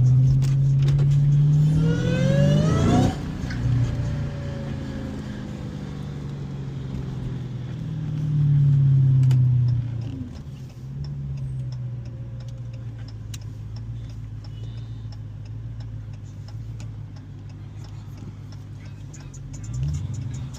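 Supercharged 6.2-litre V8 of a manual 2015 Dodge Challenger Hellcat, driving. The revs climb sharply about two seconds in and drop suddenly about a second later. The engine swells again under throttle around eight to ten seconds, settles to a steady low drone, and gives a short rising rev near the end.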